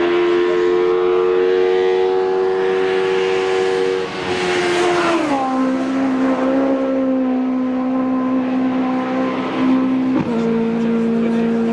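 Racing car engine running hard at high revs, its note held nearly level. The pitch glides down about four to five seconds in and steps down sharply again just after ten seconds.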